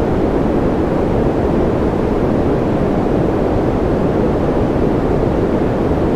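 Continuous white noise for sleep: an even, deep hiss, heavier in the low and middle range than in the highs, that never changes.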